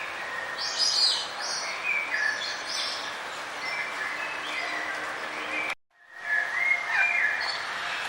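Several songbirds chirping and trilling in short, varied phrases over a steady outdoor background hiss. The sound cuts out completely for about half a second about six seconds in, then the chirping resumes.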